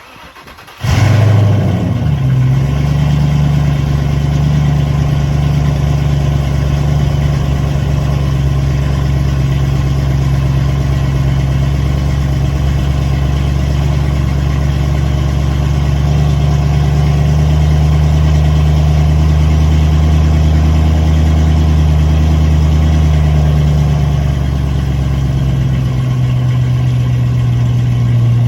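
2010 Mustang GT's 4.6-litre three-valve V8 cold starting: a brief crank, then it catches about a second in and settles into a steady fast idle. The idle drops a little a few seconds before the end as the engine begins to warm.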